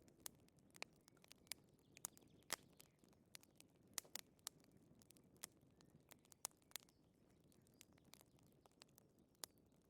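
Wood fire crackling: irregular sharp pops and snaps, a few louder than the rest, over a faint low rush.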